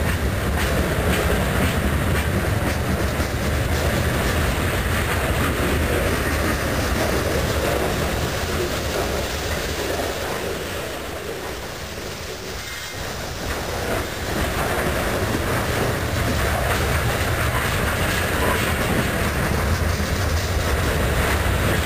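Freight train of lumber-laden centerbeam flatcars and covered hopper cars rolling past at close range: steady rumble and clatter of steel wheels over the rails. The sound dips briefly about twelve seconds in, then comes back up.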